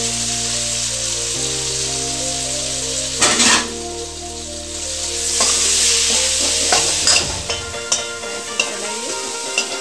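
Mashed boiled potatoes sizzling in hot oil and onion-tomato masala in a steel kadhai. From about seven seconds in, a metal spoon stirs them, clicking and scraping against the pan. Sustained background music notes run underneath.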